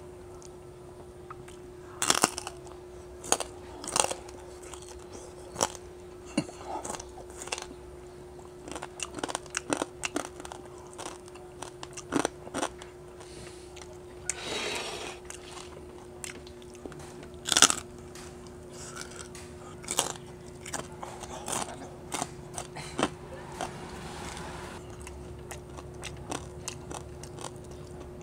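A person chewing a mouthful of crispy bagnet (deep-fried pork belly) close to a lapel mic: irregular crisp crunches of the crackling skin, with a handful of much louder bites among softer chewing.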